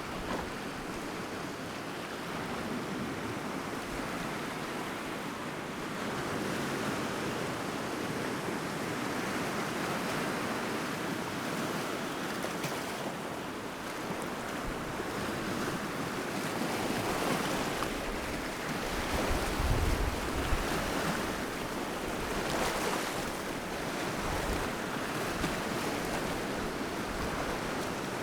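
Sea surf: waves breaking and washing ashore as a continuous rushing noise that swells and eases, building to its loudest about two-thirds of the way through. Wind buffets the microphone with low rumbles during the loudest stretch.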